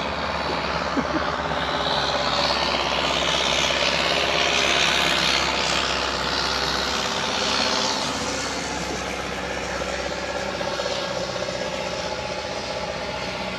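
Speedboat engine running as the boat passes on the river. It grows louder to a peak about five seconds in, with a rushing hiss at its loudest, then eases off.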